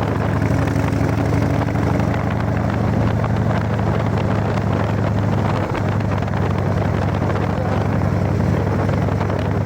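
Harley-Davidson Evolution V-twin engine running steadily on freshly changed oil, an even low-pitched rumble with no revving.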